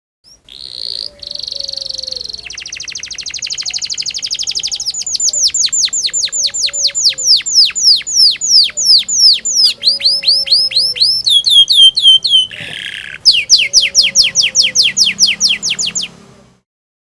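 Domestic canary singing a long song. It opens with a buzzing trill and a rapid rolling trill, then runs into long series of quick downward-sweeping whistled notes, several a second, broken near the end by one short harsh note.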